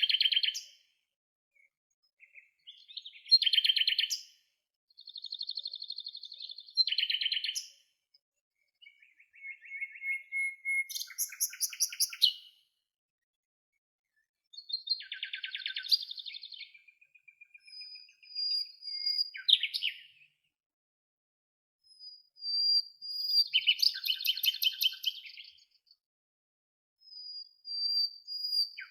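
A songbird singing in short, varied phrases of trilled and whistled notes, each a second or two long, with quiet pauses between them. There is no water or wind noise behind the song.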